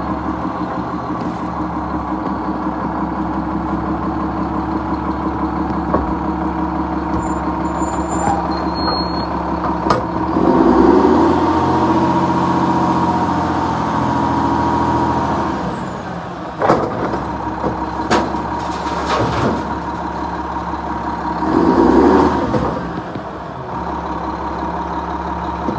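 Garbage truck's diesel engine running steadily. It speeds up under load for about five seconds, starting about ten seconds in, then drops back. A sharp knock comes near the middle, followed by a short hiss of air and another brief rise in engine speed near the end.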